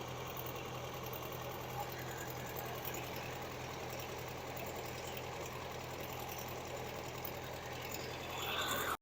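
Well-drilling rig's engine running steadily, a constant low hum.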